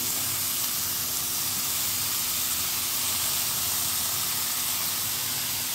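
Chopped ram phali bean pods sizzling steadily in the hot oil and spice paste of a kadai, just after being added.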